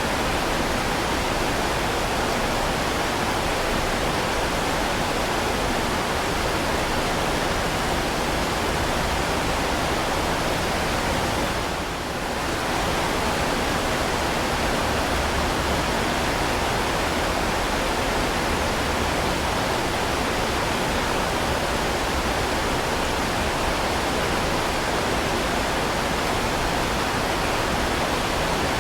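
Heavy rain falling, a dense, steady hiss with no separate drops or thunder, dipping slightly for a moment about twelve seconds in.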